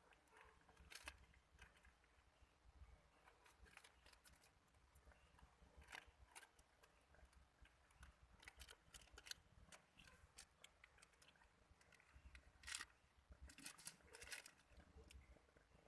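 Faint, scattered clicks and taps, irregular and a few seconds apart, with a slightly louder cluster about thirteen to fourteen seconds in, over low background noise.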